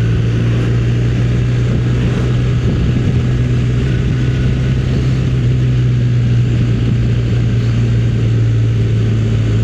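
Motorcycle engine running at a steady speed under way, with rushing wind noise.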